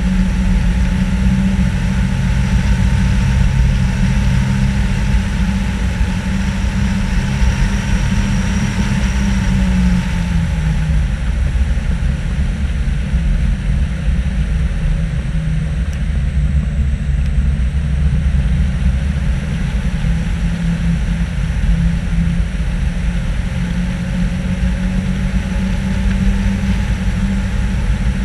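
Nissan Patrol GR off-roader's engine running steadily under way, with wind and road noise. The engine note drops slightly about ten seconds in.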